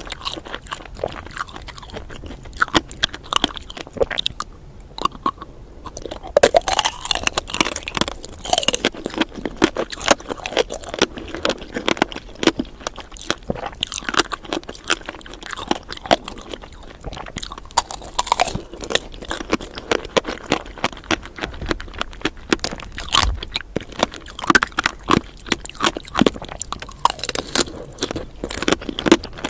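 Candied fruit being bitten and chewed, the sugar coating crunching in a fast, irregular run of crisp cracks and crackles.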